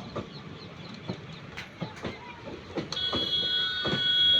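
Train running past, its wheels knocking over the rail joints, and a high-pitched train horn sounding steadily from about three seconds in, louder than the wheels.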